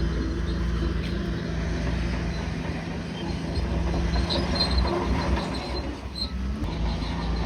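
Bulldozer working: its diesel engine runs steadily with a low hum, and its steel tracks give short high squeals about four to five seconds in and again near six seconds.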